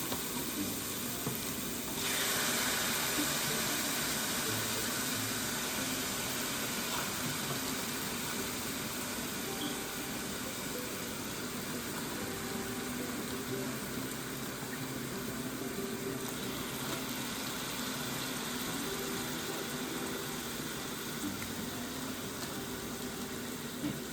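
Boneless chicken pieces going into a hot pan of onions and garlic and sizzling. The sizzle jumps up suddenly about two seconds in, then keeps on steadily and slowly eases as the meat starts to cook.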